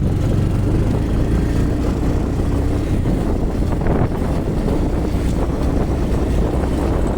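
Motorcycle riding along at a steady pace, its engine running under wind rushing over the microphone.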